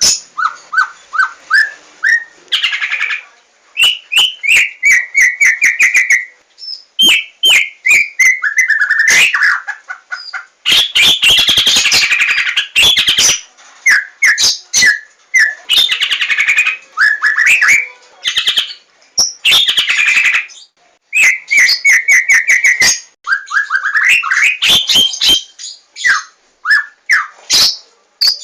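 Javan white-rumped shama (murai batu, 'larwo' type) singing loudly: phrases of rapidly repeated whistled notes and trills mixed with sharp rattling clicks, with short pauses between phrases.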